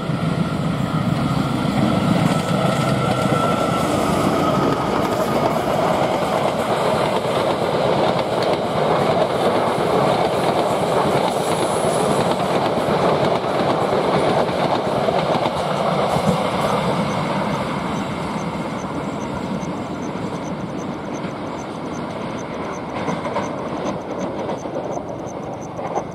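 Long-distance passenger train passing, its wheels running over the rails. The sound is loudest through the first two-thirds, then gradually fades as the train draws away.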